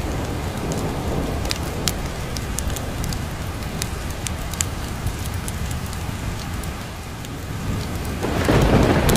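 Steady rain with low rolling thunder, and scattered sharp ticks over the rain. The thunder swells louder about eight seconds in.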